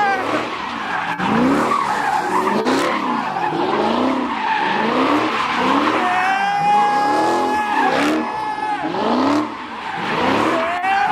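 Car doing a burnout or donuts: the engine revs rise and fall about once a second, and the tyres squeal in long, high screeches near the start and again from about six to nine seconds in.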